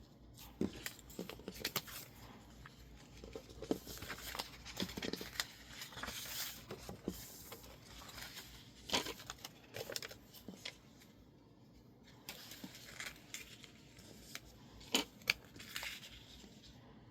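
Hands working illustrated masking tape and sticker label paper: rustling, peeling and scratching, with scattered small clicks and taps.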